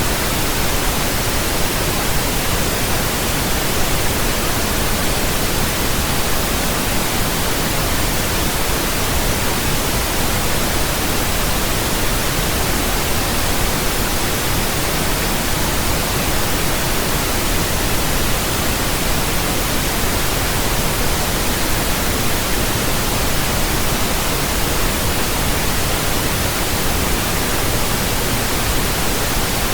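Steady pink noise: an even, unchanging hiss with a deeper tone than white noise.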